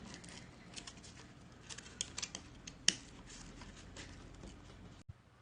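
Faint scraping with scattered small clicks and snips of thick cardboard being cut and pierced by hand, with one sharper click about three seconds in.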